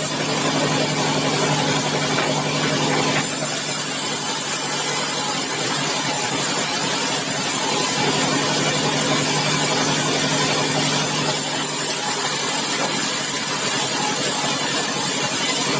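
Sawmill machinery running steadily and loudly, with a low hum. A high hiss comes in about three seconds in, stops about halfway through and returns after about eleven seconds.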